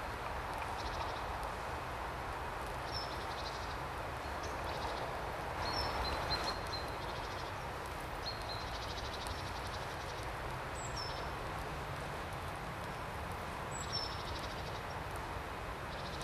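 Small birds giving short high chirps and brief buzzy trills every few seconds over a steady outdoor rushing background noise.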